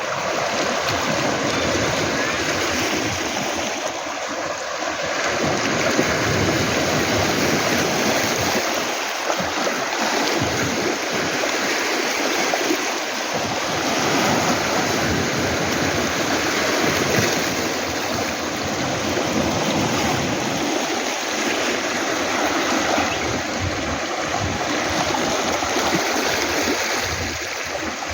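Sea waves washing onto a pebble beach of rounded stones: a continuous rush of surf that swells and ebbs every few seconds.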